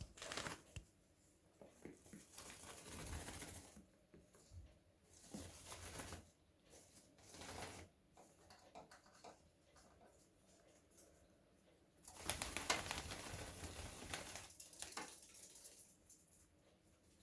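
A degu scratching at a bag of straw on the floor, making bursts of rustling scratches with short pauses between them; the longest and loudest run starts about twelve seconds in.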